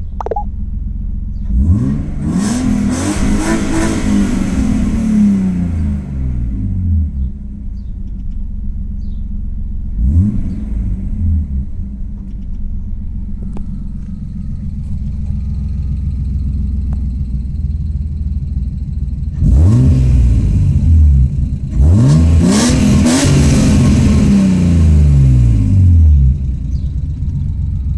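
BMW E36 325i's M50B25 2.5-litre inline-six, heard through its exhaust, idling and being revved. One long rev comes about two seconds in, a short blip at about ten seconds, and two bigger revs near the end, each rising and falling back to idle.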